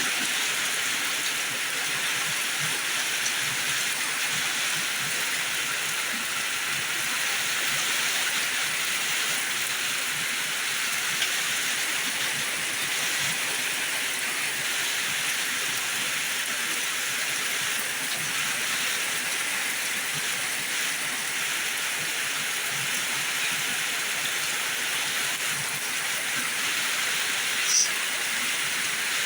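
Heavy rain pouring steadily, an even hiss, with a brief sharp high sound near the end.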